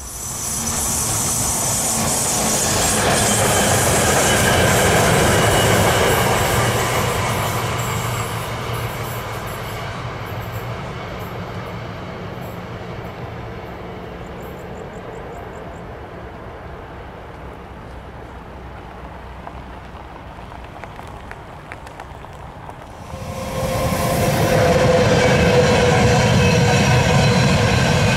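Electric-hauled passenger train, a locomotive-pushed rake of coaches, passing close by at speed: a sudden rise in rumble and wheel noise on the rails about 23 seconds in, which holds to the end. Before that, a loud rushing noise swells at the start and slowly fades away.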